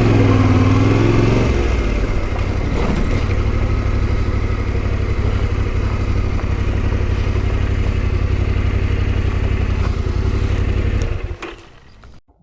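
Yamaha Ténéré 700 adventure motorcycle riding off, its engine revving up and down through the first second or so, then running steadily. Near the end the engine dies away quickly to near silence.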